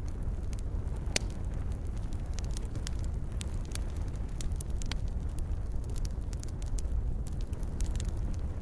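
Wood campfire burning: a steady low rumble of the flames with irregular sharp crackles and pops, one louder pop about a second in.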